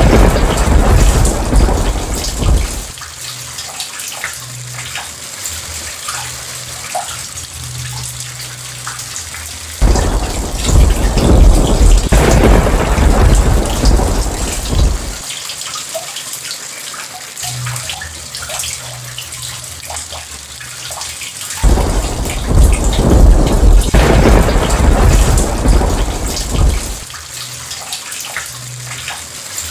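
Steady heavy rain with rolling thunder. A loud thunder roll fades out early on, and two more rolls break in suddenly, about ten seconds in and again about twenty-two seconds in, each rumbling for some five seconds over the rain.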